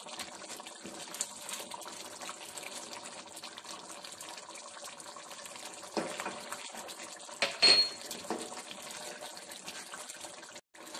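Chicken karahi sizzling and bubbling in a steel wok as it is stir-fried and its liquid cooks down, with a wooden spoon stirring and scraping the pan. Louder knocks come about six seconds in and again a second and a half later.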